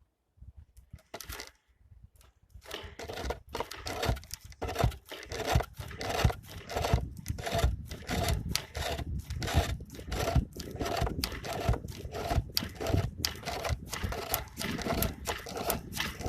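Homemade wooden lathe turning a workpiece while a turning tool cuts into the wood: rhythmic scraping and tearing strokes, about two a second, building up about three seconds in.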